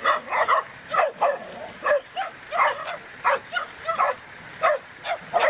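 Dogs barking and yelping in quick, repeated short barks, about three a second, some overlapping.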